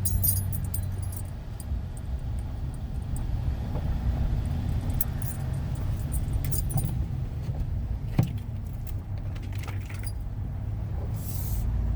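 Vehicle driving, a steady low engine and road rumble, with light jingling, clicking rattles on top.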